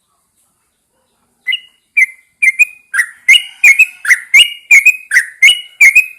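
Yellow-vented bulbul singing: a loud run of short whistled notes, about three a second, starting about a second and a half in.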